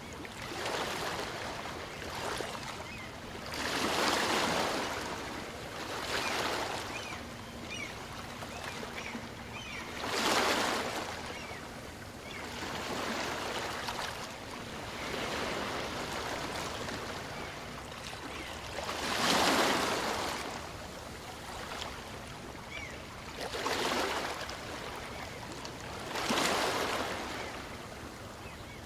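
Small waves breaking and washing up a beach on a calm sea, swelling and fading in irregular surges, with the biggest breaks about ten and nineteen seconds in.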